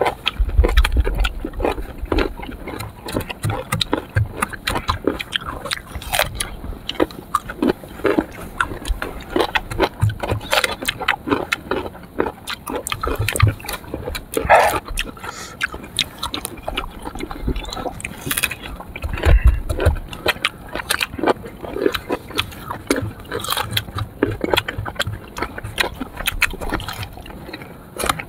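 Close-up eating of raw sour fruit: irregular crunching and chewing with wet mouth clicks and smacks, plus a few low thumps.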